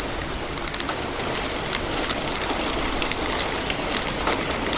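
Heavy rain falling steadily, with many sharp individual drop hits among the dense hiss.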